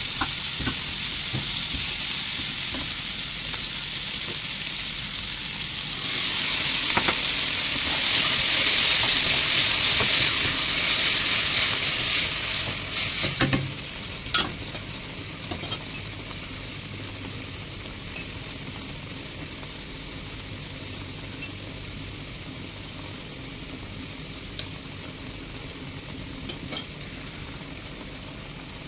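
Chopped green peppers and garlic sizzling in hot oil in a wok as a metal spoon stirs them. The sizzle grows louder about six seconds in, then falls away sharply about halfway through to a quieter simmer of tomato sauce, with a few clicks of the spoon against the pan.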